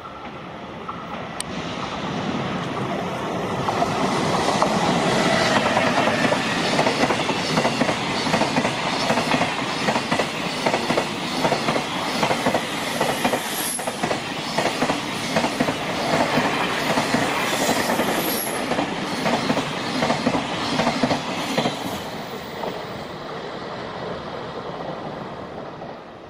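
Toyota Long Pass Express container freight train, hauled by an electric locomotive, passing at speed. Its wheels clatter rhythmically over the rail joints, with two brief high wheel squeals midway. The sound builds as the locomotive goes by and fades as the last wagons pass near the end.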